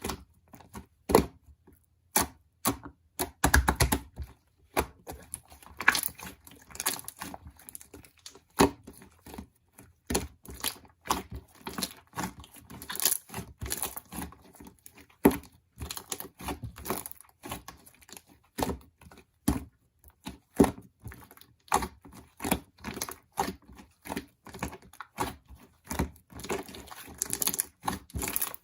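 Slime being squished and poked by hand, giving a steady run of irregular sharp clicks and pops.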